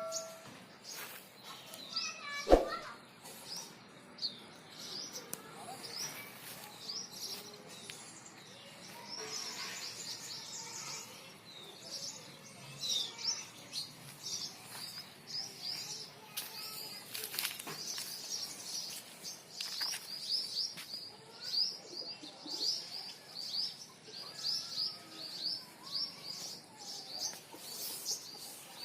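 Small birds chirping, a steady run of short high notes repeated many times a second, busiest in the second half. One loud thump about two and a half seconds in.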